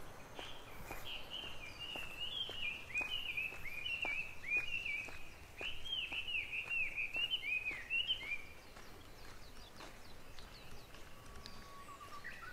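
A songbird singing a long run of quick, falling whistled notes for about eight seconds, over regular footsteps on a path.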